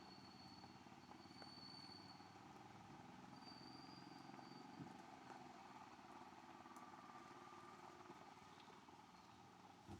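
Royal Enfield Hunter 350's single-cylinder engine running steadily, faint.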